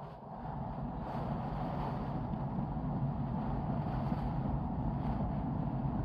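Steady low rumble of noise inside a vehicle cabin, with no distinct knocks or tones.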